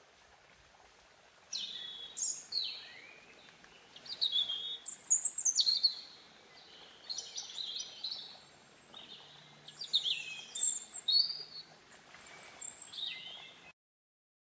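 A bird singing a run of quick, varied whistled phrases, some sweeping up and some down, starting about a second and a half in. The sound cuts off suddenly near the end.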